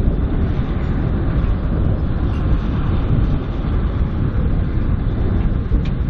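Sugar cane train running on 2ft gauge track: a steady, loud low rumble with no distinct clanks or horn.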